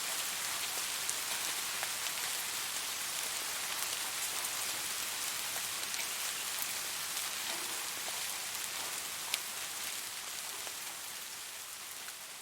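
Steady rain falling on a surface: an even hiss with scattered sharp drop ticks. It gradually grows quieter over the last few seconds.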